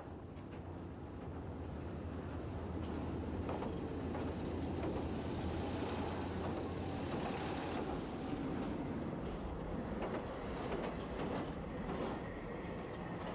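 A train running on the track: a steady rumble with scattered clicks, growing louder over the first few seconds and then holding.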